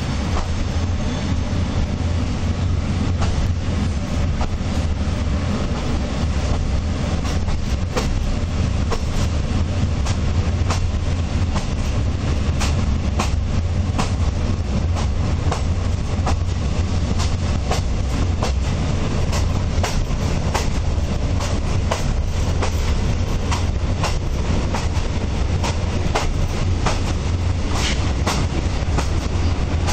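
Passenger train coach running along the track, heard from inside: a steady low rumble from the wheels and running gear, with frequent sharp clicks as the wheels pass over rail joints.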